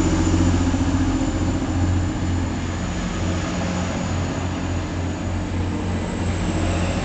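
Two coupled Class 185 diesel multiple units pulling away, their underfloor diesel engines droning steadily under power. The sound eases a little about two seconds in as the train draws off.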